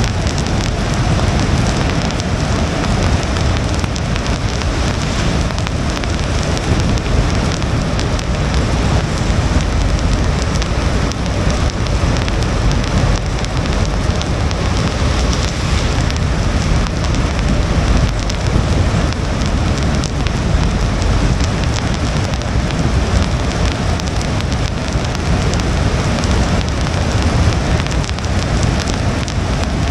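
Steady rain hitting a car's windshield over a continuous low rumble of tyres on a wet road.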